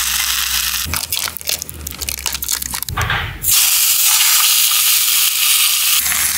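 Food frying in a hot camping frying pan over a gas stove: crackling and spattering at first, then a loud steady sizzle from about three and a half seconds in, as bacon goes into the hot pan.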